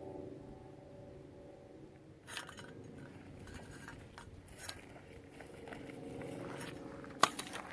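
Faint scattered crunching and clicking of movement over dry, rocky ground and debris, with one sharp click near the end, over a faint low hum.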